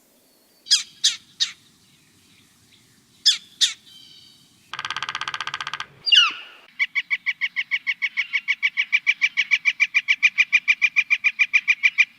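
Bird calls: a few short sharp calls, a buzzy rattle, then a long, even run of rapidly repeated notes, about eight a second.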